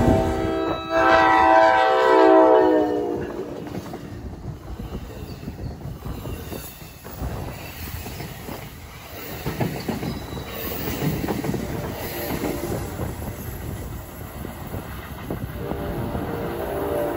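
Commuter train horn sounding one blast of about two and a half seconds, falling slightly in pitch. The train then passes with wheels clicking and rumbling over the rail joints, and another horn blast begins near the end.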